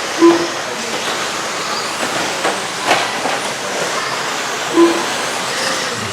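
A pack of 1/10-scale electric RC stadium trucks with 13.5-turn brushless motors racing on the track: a steady whir of motors and tyres, with two short tones, one just after the start and one near five seconds, and a sharp clack about three seconds in.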